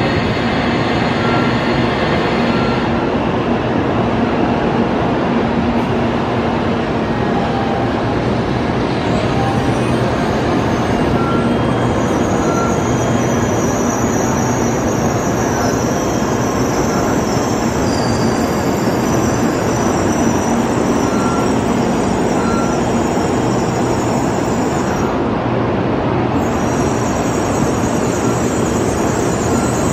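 N700A Shinkansen train rolling slowly along the platform: a steady rumble of wheels and running gear, with a high-pitched squeal joining about twelve seconds in.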